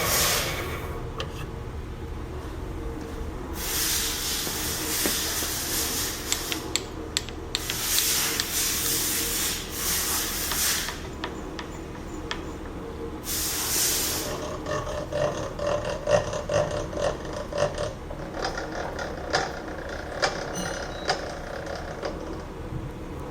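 Hammond CM-6 chip breaking and cup wheel grinder's half-horsepower, 3500 rpm three-phase motor running steadily. Three bursts of hissing grinding noise come in its first half, then a run of light clicks and taps.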